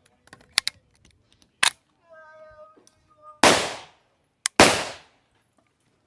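Two loud gunshots about a second apart, a little past the middle, each with a decaying report. They are preceded by a few fainter sharp cracks and a brief steady tone.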